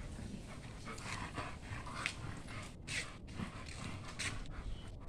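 A dog panting, in short breathy strokes at an irregular pace.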